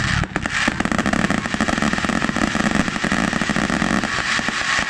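Firecrackers crackling in a rapid run of small, closely packed bangs, over a steady low rumble for most of it.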